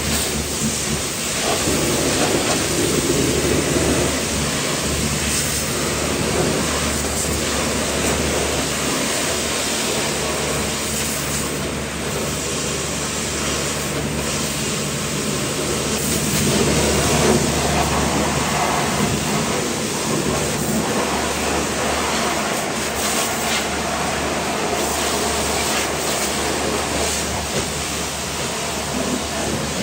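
Pressure washer spraying water onto a car body, a steady hiss of spray over the continuous hum of the washer's pump motor, swelling slightly now and then as the jet moves.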